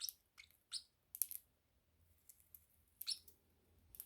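Parrotlets giving short, high chirps, about six scattered through the few seconds, several of them quick downward sweeps.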